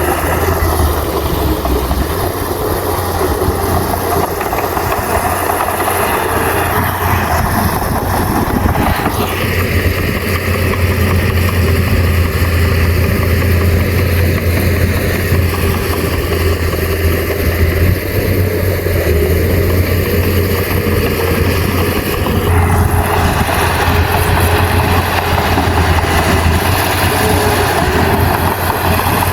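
Heavy diesel engine of a bulldozer running steadily with a deep hum. Its higher clatter eases about nine seconds in and comes back near the 22-second mark.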